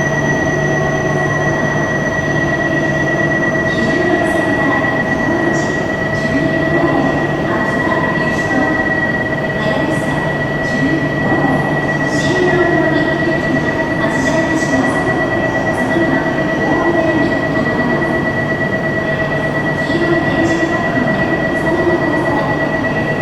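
Shinkansen train at an underground platform giving off a steady electrical whine and hum, several tones held without change, so the train is not speeding up or slowing down. Scattered light clicks and a murmur run underneath.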